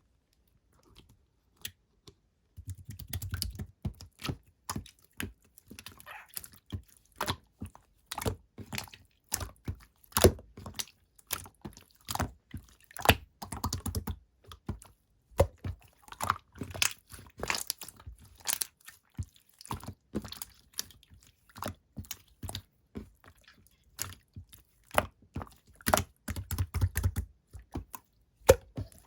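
Clear slime being squished and pressed by hand, making dense, irregular sticky clicks and pops, with a few soft low thuds.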